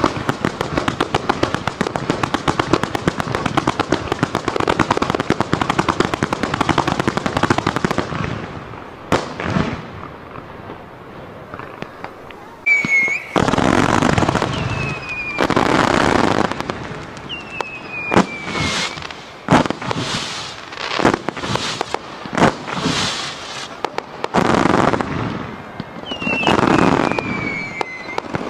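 Fireworks display: a dense, rapid crackle of many small reports for the first eight seconds, a short lull, then a run of separate loud bursts from about halfway through, several with short whistles falling in pitch.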